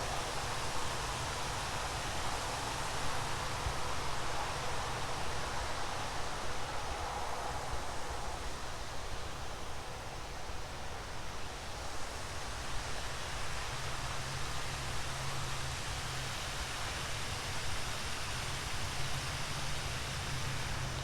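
A steady, even hiss of noise, with a low hum underneath that gets stronger about two-thirds of the way through.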